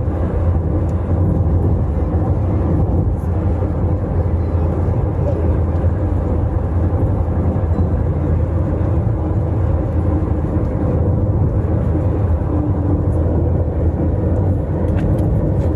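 Steady low rumble of road and engine noise inside a car cruising on the highway.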